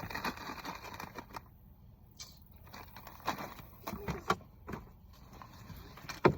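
Scattered light clicks, taps and rustling of small objects being picked up and handled, with a sharper knock just before the end.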